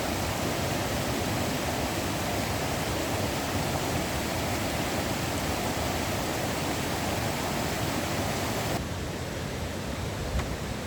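Steady rush of falling water from a waterfall. About nine seconds in it cuts suddenly to a quieter, duller rush, with a single soft knock near the end.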